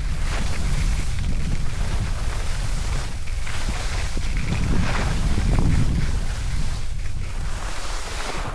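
Wind buffeting the microphone while skiing, a steady low rumble, with the hiss of skis on snow swelling and fading through the turns.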